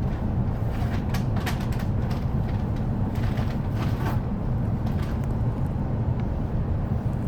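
Interior ambience of an E233 series commuter train car standing in a station: a steady low hum, with several light clicks about one to four seconds in.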